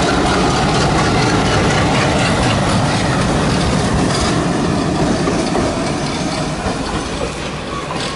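A train moving along the track close by at a station, a steady loud rumble of engine and wheels on rail that eases a little near the end.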